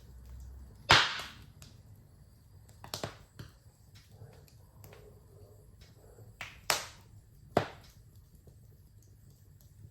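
Wood fire crackling in a fireplace: a few sharp pops, the loudest about a second in, others around three seconds and twice near seven seconds, with faint small crackles between.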